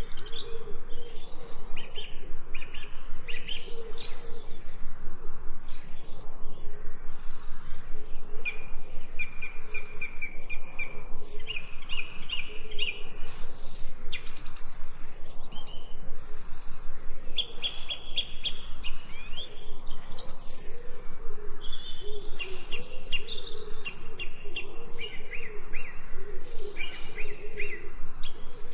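Several forest songbirds chirping and singing at once, with many short high notes and quick trills overlapping, over a lower wavering call.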